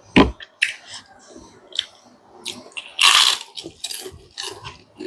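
A person chewing and biting food, with irregular wet clicks and crackles and one louder, longer noisy burst about three seconds in.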